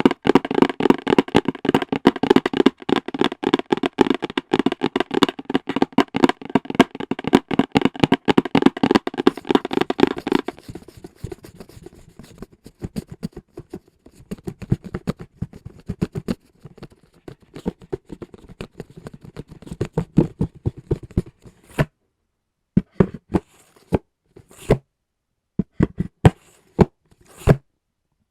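Rapid fingertip and nail tapping on hard objects, a dense fast patter for about ten seconds, then softer and sparser, ending in a few separate taps with silence between them.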